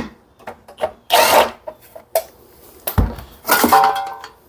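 Tools and mower parts being handled on the bench: clicks and a scraping sound about a second in, a hard knock about three seconds in, then more scraping with a brief ring.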